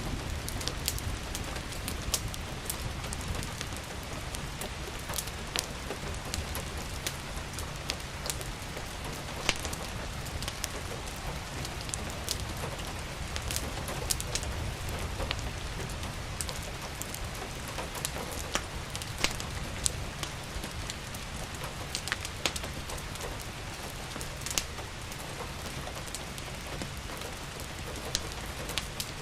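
Steady rain falling, mixed with a wood fire crackling, its sharp pops and snaps scattered irregularly throughout, over a low steady rumble.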